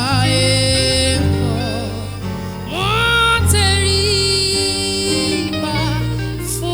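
Gospel worship music: a singer holding long notes with vibrato and sliding up into a new note about three seconds in, over a sustained bass and instrumental accompaniment.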